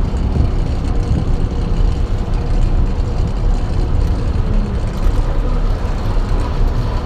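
Truck driving along the road: a steady low engine drone mixed with road noise.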